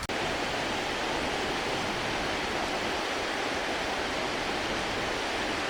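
Steady rushing water, an even hiss with no rises or breaks.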